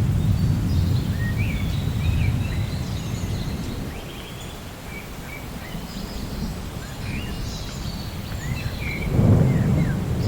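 Low rolling thunder that dies away over the first few seconds, then a new roll swelling near the end, with small birds chirping throughout.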